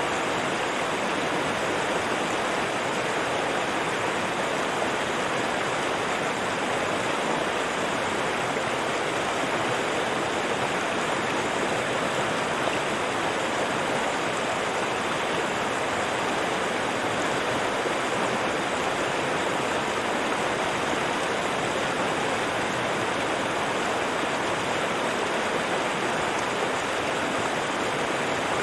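River water rushing steadily over rocks, a constant even rush with no breaks.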